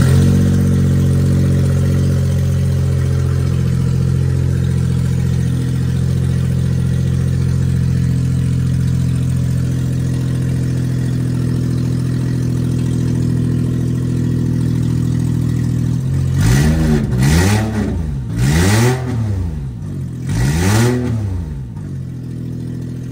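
A Suzuki Alto's 660cc three-cylinder engine idling steadily just after starting, then revved in four short blips near the end, each rising and falling back to idle. It runs very noisily.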